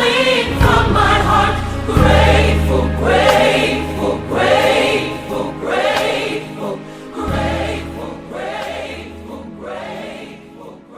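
Gospel choir singing long held notes over a bass and keyboard accompaniment, getting quieter toward the end.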